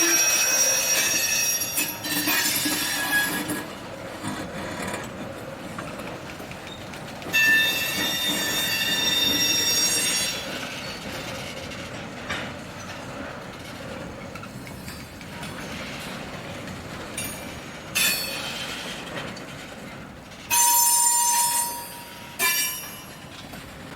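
Freight train hauled by Iowa Traction Railway steeple-cab electric locomotives rolling slowly, its steel wheels squealing against the rails in repeated high-pitched bursts over a steady rumble of the cars. The strongest squeals come at the start, about seven seconds in, and near the end.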